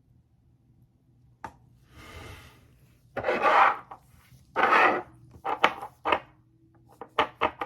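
Handling noises from an insulin syringe and vial being worked by hand: a click, two louder rubbing scrapes about a second apart, then a quick run of light clicks and taps.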